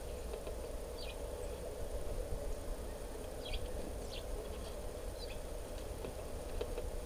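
Short, high bird chirps, about five scattered over several seconds, over a steady low background rumble.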